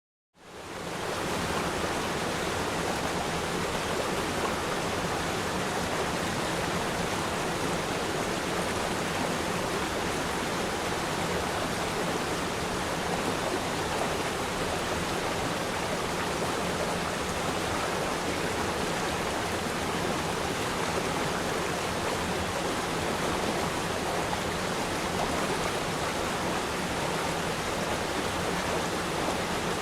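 River stream flowing, a steady rushing and babbling of water that fades in within the first second and then holds even.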